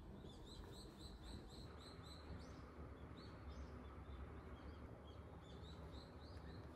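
Faint bird chirping: a quick run of short high chirps, about four a second, that thins out midway and picks up again, over a low background hum.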